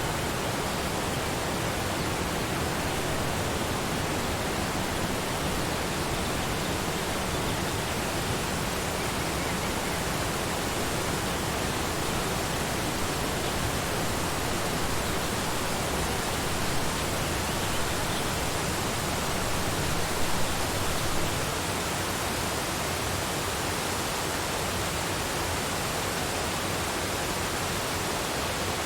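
Waterfall: a steady, even rush of falling water, briefly a little louder about two-thirds of the way through.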